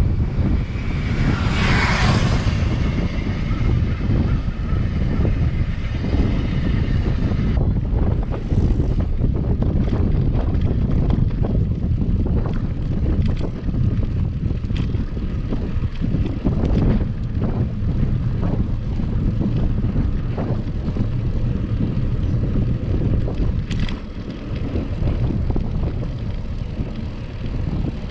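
Wind buffeting the microphone of a camera on a moving bicycle, a steady, loud low rumble, with a brief brighter hiss about two seconds in.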